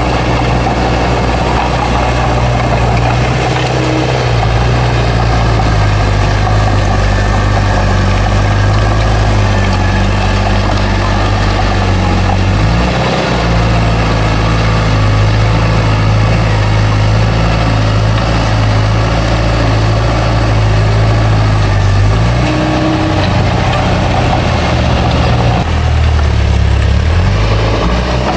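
Bulldozer's heavy diesel engine running steadily with a deep, even drone. Its pitch shifts briefly about 13 seconds in, and again around 23 and 26 seconds in, as the load changes.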